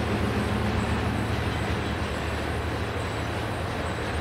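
Norfolk Southern intermodal freight train, truck trailers on flatcars, rolling steadily across a stone-arch bridge: a continuous low rumble of wheels on rail.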